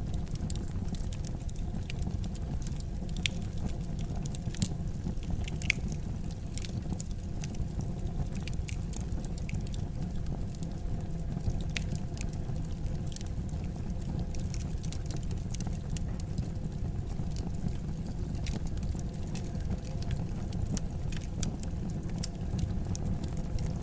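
Fire in a fireplace crackling: scattered sharp pops and crackles at irregular moments over a steady low rumble of the flames.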